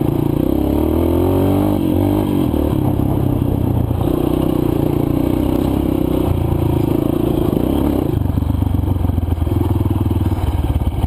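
Single-cylinder four-stroke dirt bike engine running under varying throttle on a rough trail. Its pitch rises over the first couple of seconds, then holds and steps up and down as the throttle is worked.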